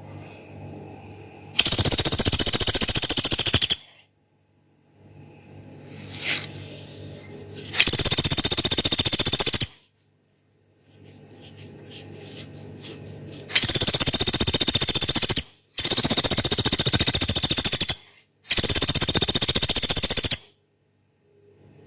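A small woodpecker, the 'pelatuk beras', giving five loud, long, harsh rattling trills, each about two seconds of rapid pulses, the last three close together. A faint steady high-pitched hum fills the gaps between them.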